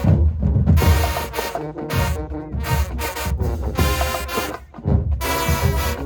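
High school marching band playing, brass horns sounding over heavy, rhythmic drums.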